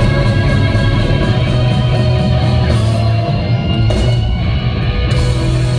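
Live rock band playing loud, with electric guitars to the fore, near the close of a song.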